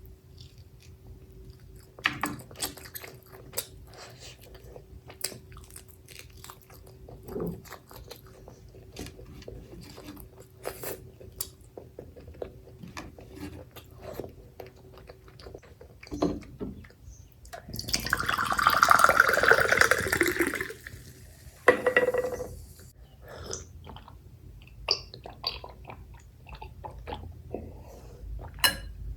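Close-up eating sounds of a person working through mutton curry and rice: soft wet chewing, smacking and small clicks, with a louder noisy stretch of about three seconds past the middle.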